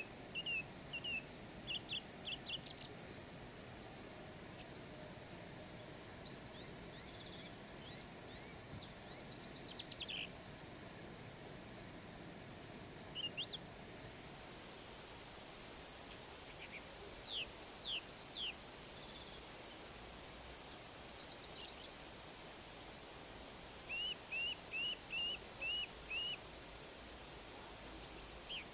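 Wild birds chirping and calling over a steady outdoor background hiss: scattered short whistles and trills, with a run of about six quick, evenly spaced notes near the end.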